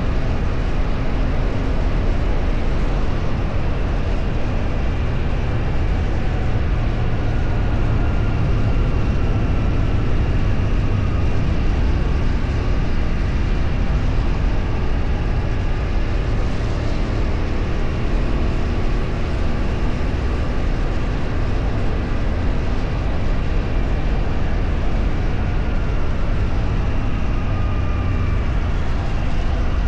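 Steady rumble of a moving road vehicle, engine and road noise, with faint engine tones slowly rising and falling as it changes speed.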